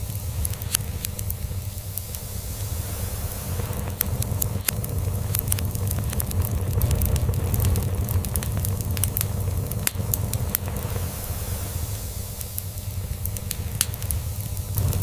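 Crackling log fire, with scattered sharp pops and snaps, over a steady low rumble of a cat purring.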